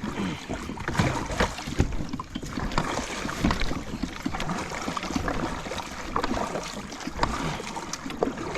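Kayak knocking and scraping against a log, with water sloshing around the hull: irregular knocks and clatters as the stuck boat is worked free.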